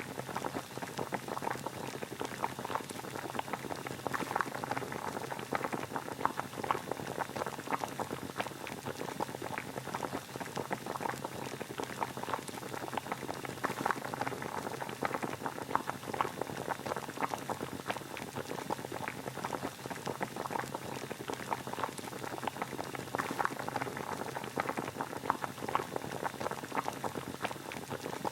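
Water boiling at a steady rolling boil, a continuous dense bubbling with many small pops, used as white noise.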